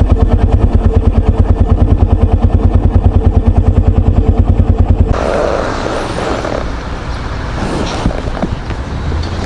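Yamaha Serow 250's air-cooled single-cylinder engine idling with an even thump, about ten beats a second. About five seconds in it cuts off abruptly and a steady rushing noise takes over.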